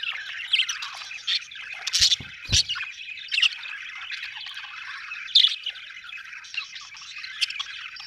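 Budgerigars chattering and warbling without a break, with sharper chirps standing out now and then. There are two short knocks about two seconds in.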